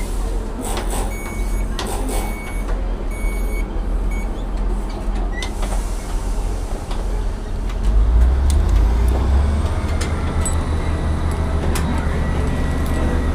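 Class 158 diesel multiple unit: its door-warning beeps repeat over the first few seconds over a low diesel engine rumble. About eight seconds in, the engine note swells louder as the train powers up to pull away, with a faint rising whine.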